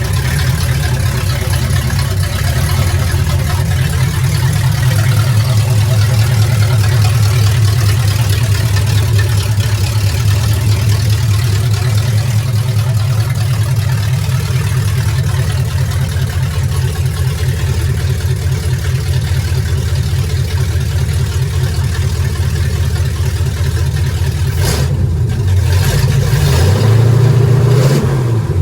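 Classic Ford truck engine idling steadily, then briefly revved and let back down near the end. It runs smoothly with a newly replaced fuel line, which the owner believes was what had been making it stall.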